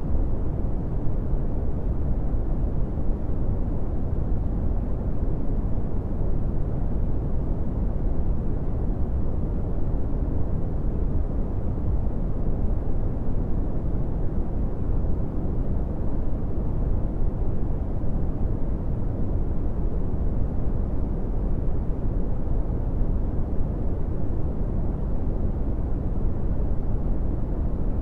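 Brown noise: a steady, even, deep hiss with its energy in the low frequencies and little in the highs, unchanging throughout.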